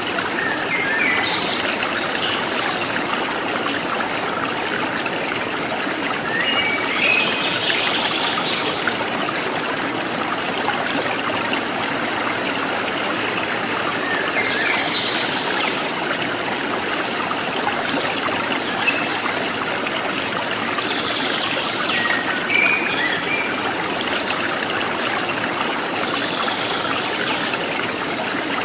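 Forest stream trickling and splashing steadily, with wild birds giving short chirping calls every few seconds over it.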